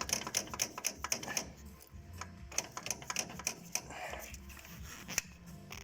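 Irregular metallic clicks and knocks from a seized front-suspension part, freshly sprayed with penetrant, being rocked back and forth by hand to free it. The clicks come thick in the first second, then more spaced out.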